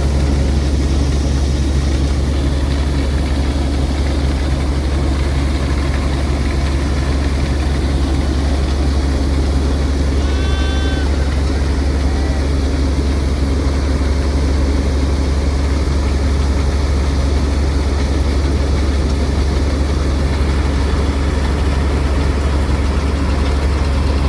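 Heavy diesel engine of farm harvesting machinery running steadily with a deep, constant hum. A brief high, pitched call sounds once about ten seconds in.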